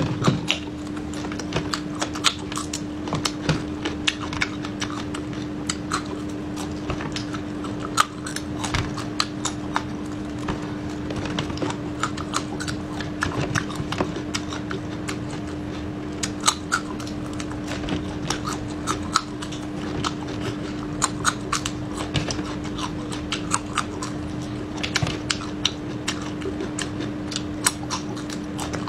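Close-up crunching and chewing of fresh red chili peppers, with many quick, irregular crisp bites and wet mouth sounds, over a steady low hum.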